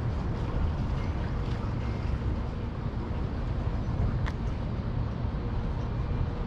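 Steady low rumble of outdoor background noise, with one faint click about four seconds in.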